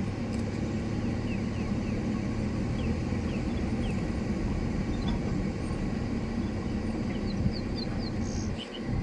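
Vehicle engine idling with a steady low drone, with a few faint, short, high bird chirps over it.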